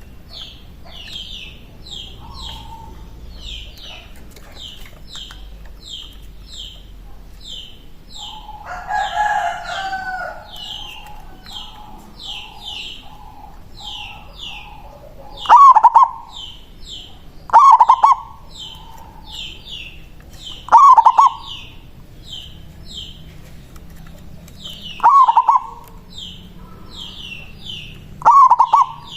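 Zebra dove (perkutut) singing its cooing song: five loud, short calls spaced a few seconds apart in the second half. Under it another bird chirps high and steadily about twice a second, with a louder, longer call about nine seconds in.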